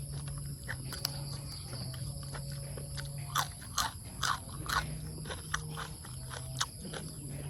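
A person chewing and smacking while eating, with a string of short wet clicks and smacks that come thickest a few seconds in. A low hum comes and goes underneath.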